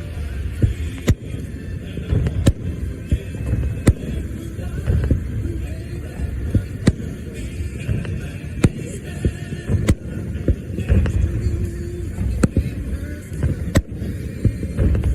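Fireworks going off: a string of sharp bangs at irregular intervals, about a dozen in all, over a continuous low rumble of booms.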